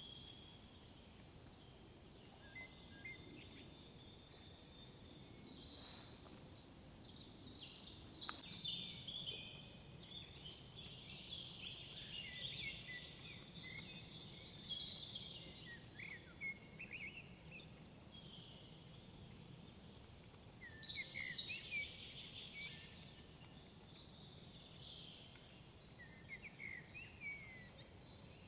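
Several songbirds singing in woodland: high warbling and chirping phrases come every few seconds, some ending in thin, very high trills, over a faint steady background hush.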